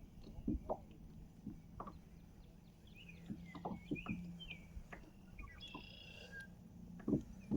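Birds chirping and calling, with scattered light knocks and taps and a steady low hum underneath.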